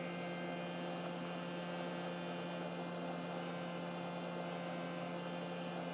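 Steady electrical mains hum: a low buzzing tone with a ladder of higher overtones, with no other sound over it.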